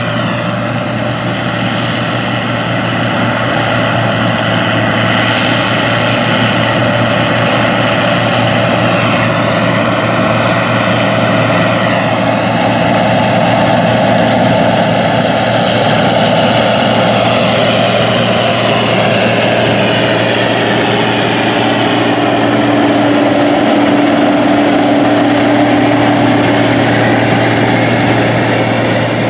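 Deutz-Allis Gleaner R60 combine running steadily while harvesting wheat, a constant engine and machinery drone with a strong low hum.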